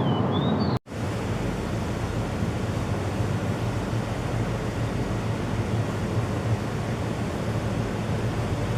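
Steady rushing noise of water and wind on the microphone. Under a second in, the sound cuts out for an instant and then resumes. Just before that, a faint, brief high bird chirp glides down and then up.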